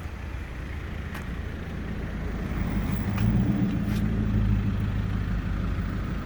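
A car engine running at idle: a steady low rumble that grows louder a few seconds in, with a few faint clicks.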